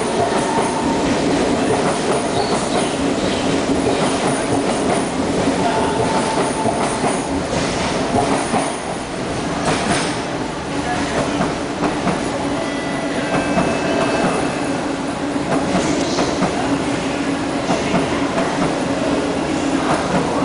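SMRT C151 metro train running along the track as it pulls away, a steady hum with many short clicks and a few thin high whines about halfway through. This is the weird track sound heard where trains are running slower.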